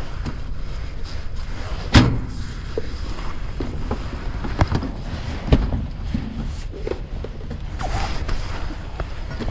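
A few scattered knocks and clicks, the loudest a sharp knock about two seconds in, over a steady low rumble.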